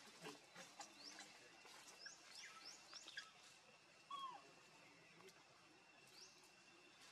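Faint bird chirps: a series of short rising notes, several close together early on and another near the end, over a faint steady high tone. A short lower call stands out about four seconds in.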